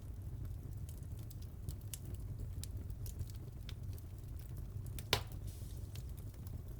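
Fire in a fireplace crackling, with many small quick pops over a low steady rumble and one louder pop about five seconds in.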